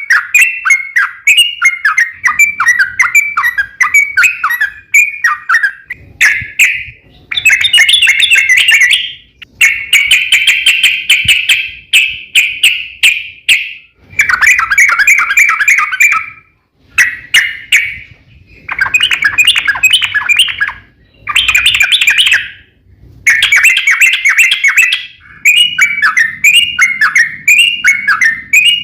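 Yellow-vented bulbul (trucukan) singing loud, rapid runs of bubbly chirping notes in a string of bursts, some a second long and some several seconds long, separated by short pauses.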